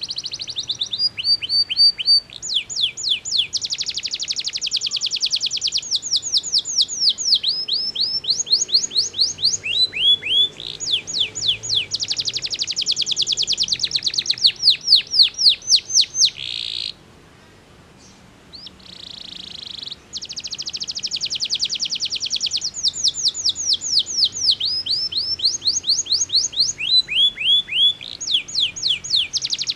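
Canary singing: long, fast trills of rapidly repeated down-slurred notes, one tour after another, with a short pause a little past halfway.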